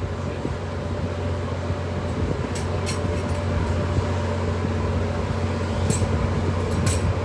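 Steady mechanical hum with a constant low drone under an even rushing noise, with a few brief high ticks scattered through.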